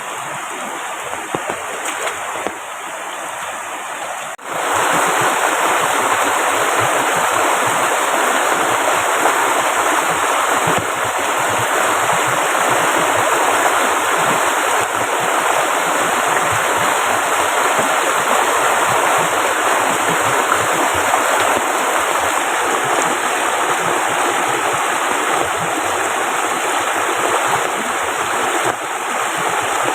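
Steady heavy rain mixed with the rush of river water, a continuous hiss with no let-up. It steps up louder about four and a half seconds in.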